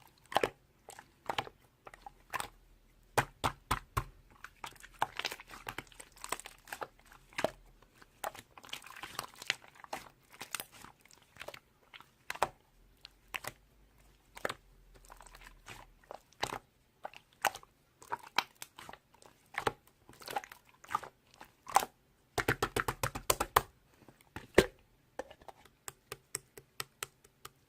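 Raw orange carrot being bitten and chewed: a steady run of irregular crisp crunches, with denser flurries of chewing in places.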